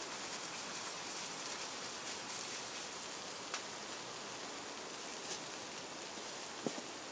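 Steady patter and hiss of rain falling on a surface, with three sharp clicks spread through it.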